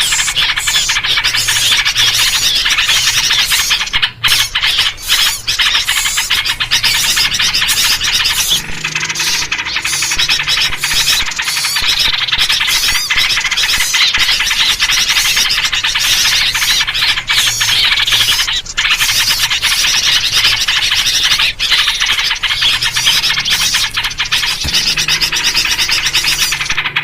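Dense, unbroken chorus of many small songbirds chattering and chirping over one another, a noisy mixed-bird luring recording with yellow-vented bulbul (trucuk) calls among them.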